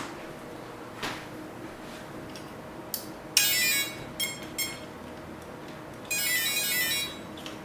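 Electronic beeping tones: a bright tone about halfway through, two short beeps, then a longer tone near the end, over a faint steady hum.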